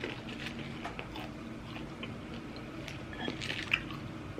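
A person chewing food close to the microphone, with soft wet mouth sounds and scattered small clicks and crackles. There is one sharper click near the end.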